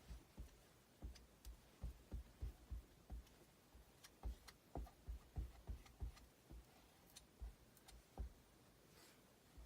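Faint, irregular soft taps and clicks, a few a second, from a tool working chalk paste onto a stencil transfer on a tabletop.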